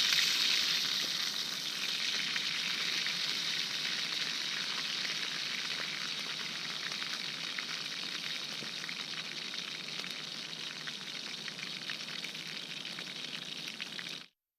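Chicken breast sizzling in a hot frying pan over a campfire, a steady frying hiss that eases slightly, then cuts off abruptly near the end.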